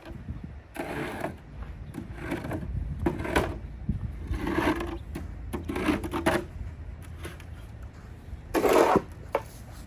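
Snow shovel scraping across the porch in about six separate pushing strokes, each about half a second long, with the loudest stroke near the end.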